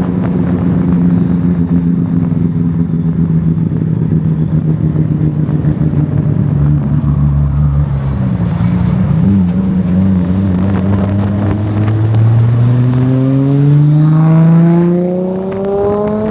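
Car engine running at a steady cruise, its pitch slowly sinking, then dipping about nine seconds in and climbing steadily through the last few seconds as the car accelerates.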